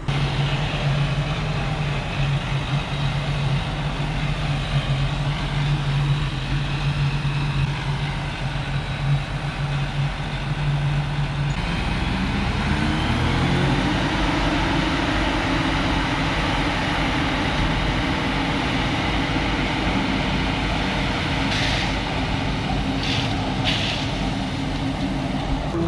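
Diesel engine of heavy farm machinery running steadily, then rising in pitch over about two seconds roughly halfway through and holding at the higher speed. A few short hisses near the end.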